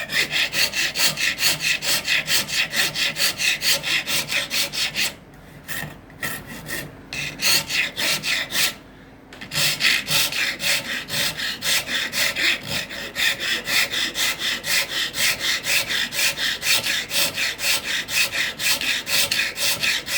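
Rapid back-and-forth abrasive strokes of a hand tool on acacia wood, about four a second, as the teeth of a comb are smoothed. The strokes pause briefly a few times about halfway through, then resume.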